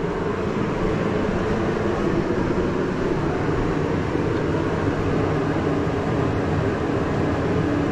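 A steady mechanical drone of a running machine, holding several steady low tones at an even level throughout.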